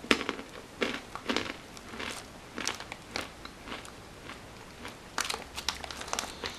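Crunching and chewing on a wasabi-flavoured peanut in a crisp chip-like shell: a run of irregular sharp crunches, coming thicker about five seconds in.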